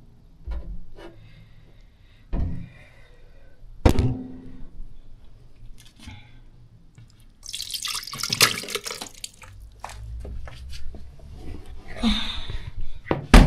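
Handling knocks as kitchen things and the camera are moved about: several separate thuds in the first few seconds, a sharp knock at the end, and between them two bursts of rushing noise, the longer lasting about two seconds.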